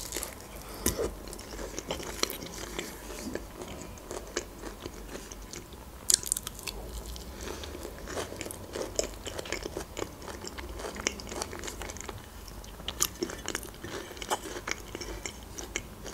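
Close-miked biting and chewing of a slice of nectarine taken off a fork, with scattered short sharp clicks throughout.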